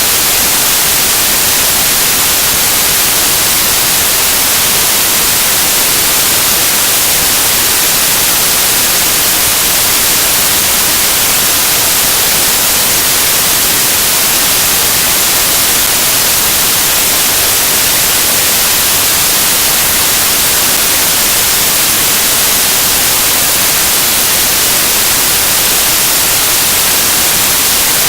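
Loud, steady static hiss, like white noise, strongest in the treble and unchanging throughout, with no speech or other sound over it.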